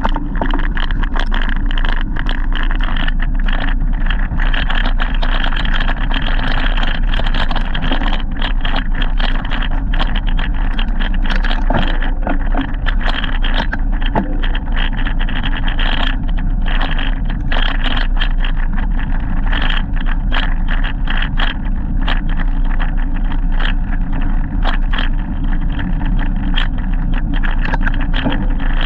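Steady wind and road noise of a bicycle ride, with a constant low rumble and frequent small rattles and knocks.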